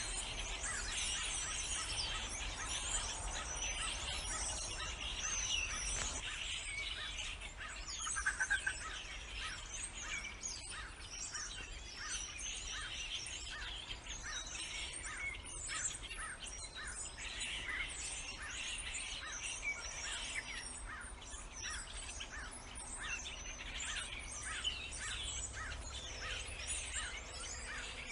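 Many birds chirping and singing at once in a dense outdoor chorus. From about halfway through, one short call repeats evenly about twice a second over the rest of the chorus.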